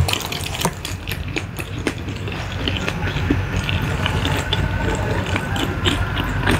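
Close-miked chewing of sauce-coated fried chicken: irregular crunching and wet clicks from the mouth, over a steady low hum.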